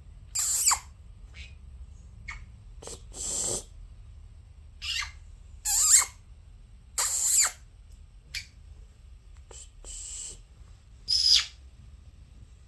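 Pet conures giving about a dozen short squawks and chirps with gaps between them, some harsh and scratchy, some sliding quickly in pitch. A faint low hum runs underneath.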